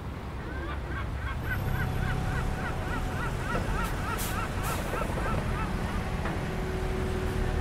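A bird calling in a fast run of short repeated notes, about four a second, over a low background hum. Two brief clicks come near the middle.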